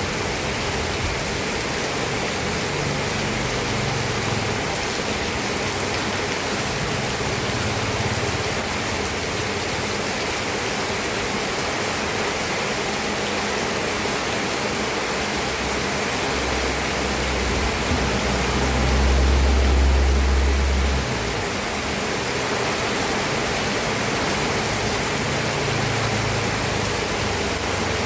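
Steady heavy rain, an even hiss. A deep low rumble swells in about two-thirds of the way through and fades a few seconds later.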